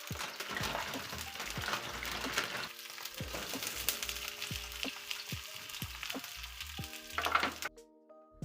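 Food sizzling and crackling as it fries in a hot pan, cutting off abruptly near the end, with soft background music.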